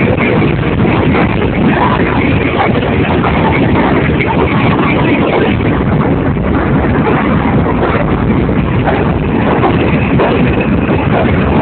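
New York City Subway R160A train running on the track as it pulls out, a loud, steady rumble and rattle.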